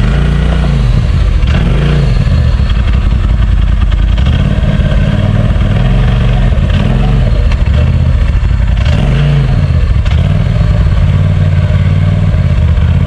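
Side-by-side UTV engine running loud, revving up and easing off again several times in short bursts.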